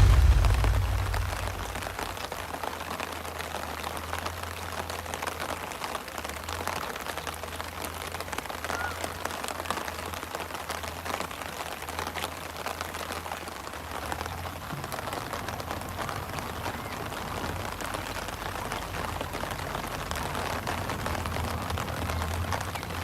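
Steady rain pattering on a fishing umbrella's fabric canopy, a dense patter of drops heard from underneath. A dull low thump opens it and dies away within about a second.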